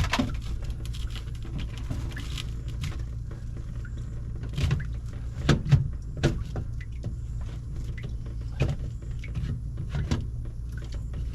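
Short, scattered knocks and clicks of a plastic RV dump valve and its fittings being handled and pushed into place on the waste tank outlet, the loudest a cluster of knocks about halfway through, over a steady low rumble.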